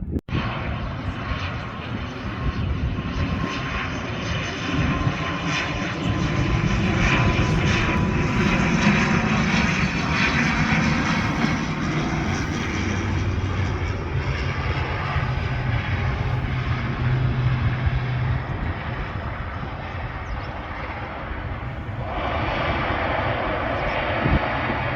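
An airplane's engines passing close by, a steady loud rush with a faint whine that slowly falls in pitch. It is loudest about a third of the way in, then eases off.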